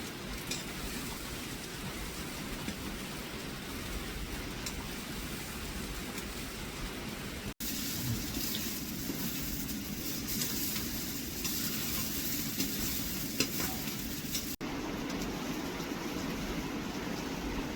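Steady rain falling, an even hiss with scattered drips and ticks. The sound breaks off briefly twice, about seven and a half and fourteen and a half seconds in.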